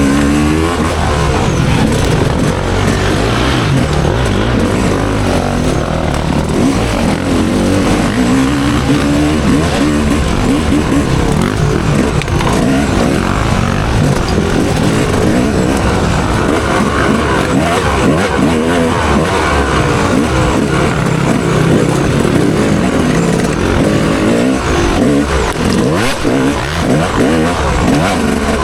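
Dirt bike engine revving hard up and down over and over as it is raced, loud and continuous.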